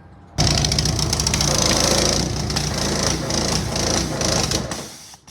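Car engine being cranked over: a loud, rapid mechanical rattle that starts abruptly and stops after about four seconds. The car is low on gasoline.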